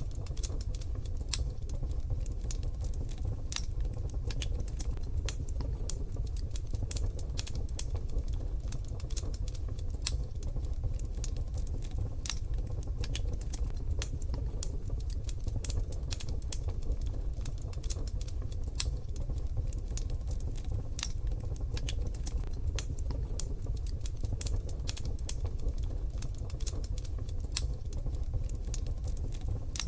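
Wood fire crackling in a wood-burning stove: a dense run of small, irregular pops and snaps over a steady low rumble.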